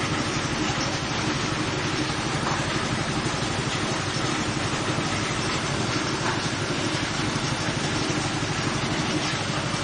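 Coconut husk fibre-separating machine running steadily, its engine going at an even speed with a fast regular pulse.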